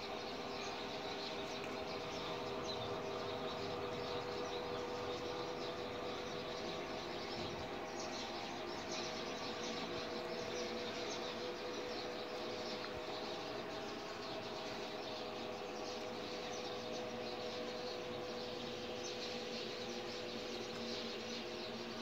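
Outdoor background ambience: a steady hum with faint, high bird chirps scattered through it.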